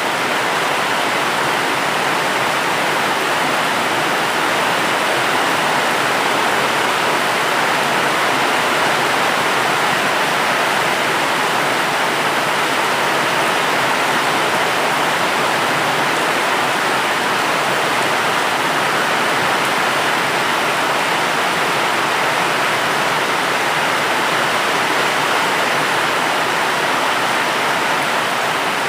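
Rain falling steadily: an even, unbroken hiss with no single drops, thunder or other events standing out.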